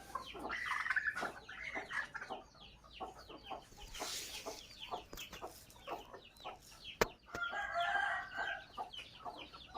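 Featherless nestling birds chirping nonstop: a dense run of short, high, downward-sliding cheeps, the begging calls of chicks wanting food. One sharp click sounds about seven seconds in.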